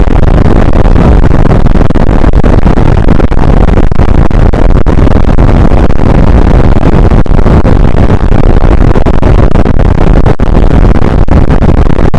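Strong wind blasting the microphone, a loud, distorted rumbling roar that runs without a break.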